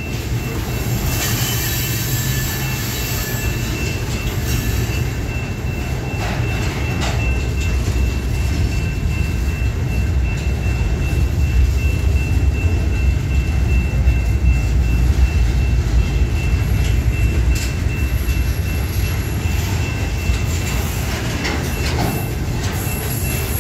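CSX freight train's steel slab cars rolling past close by: a steady heavy rumble of steel wheels on rail, with a few clicks over the rail joints and a thin high wheel squeal held throughout.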